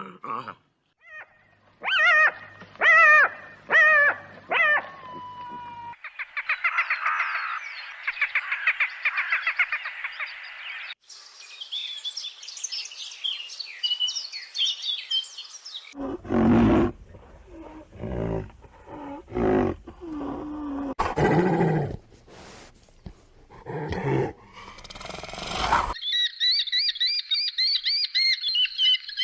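A succession of different animal calls, each clip lasting a few seconds: a handful of repeated pitched calls, a buzzing trill, high chirping, a stretch of low, rough calls, and rapid high chirps near the end.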